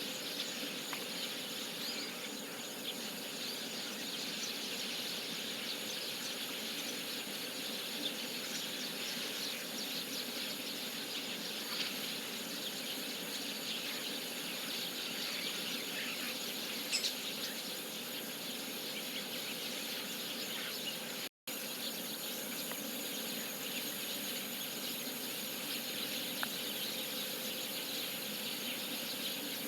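A large flock of chestnut-cheeked starlings calling together as they gather to roost: a dense, continuous chatter of many overlapping chirps. The sound cuts out for an instant about two-thirds of the way through.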